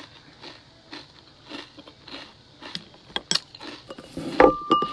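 Close-up chewing of a mouthful of crunchy cereal in milk: short crunches every half second or so. Near the end a metal spoon knocks against the drinking glass, which rings briefly.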